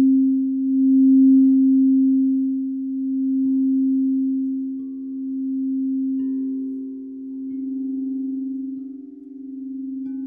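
Singing bowls ringing: one low tone held throughout with a slow, pulsing waver in loudness, and higher bowl tones joining one after another from about a third of the way in.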